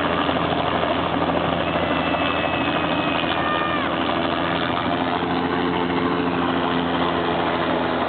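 Helicopter running steadily as it lands, its engine and rotor giving an even, unbroken noise. About two seconds in, a high tone holds for roughly two seconds, then drops away.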